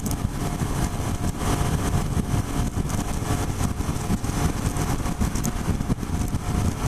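2007 Suzuki SV650's V-twin engine with a full Yoshimura exhaust running steadily in fifth gear at about 6,500 rpm, highway cruising speed, under heavy wind noise.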